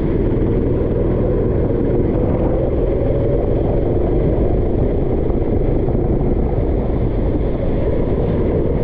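A motor vehicle engine running steadily under a heavy, continuous low rumble, its note drifting slightly up and down.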